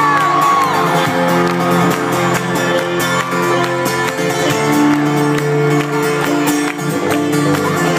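A live band playing, with guitar prominent, and the crowd shouting and whooping over the music.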